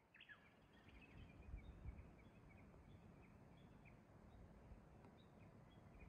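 Faint birds chirping outdoors: many short, high calls scattered through, over a low, steady rumble.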